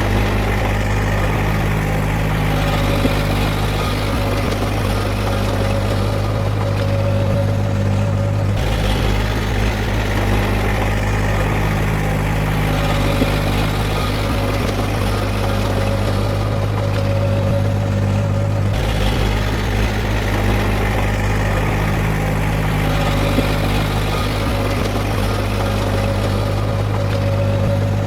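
Heavy-equipment diesel engine running steadily with a deep, even hum, the sound shifting abruptly about every ten seconds.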